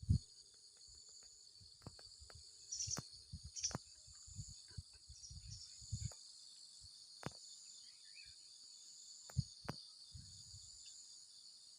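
Steady high-pitched insect chorus, with scattered low thumps and a few sharp clicks; the loudest thump comes right at the start.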